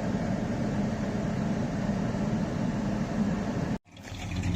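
Steady engine and road noise heard from inside a moving car, with a low hum; it cuts off abruptly near the end, and a low engine sound starts up right after.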